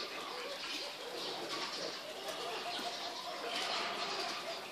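Birds calling in an aviary pen, including low cooing, over a steady background hiss.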